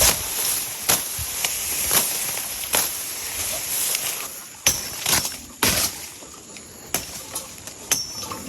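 Footsteps pushing through rainforest undergrowth: sharp crunches and snaps of leaves and twigs at about one a second, over a steady high insect drone.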